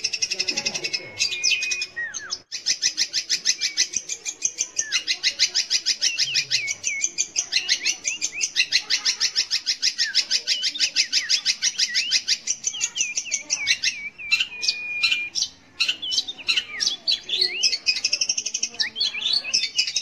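Long-tailed shrike (cendet) singing: a long, very fast run of evenly repeated high chattering notes lasting about eleven seconds, with scattered slurred whistles and chips before and after it.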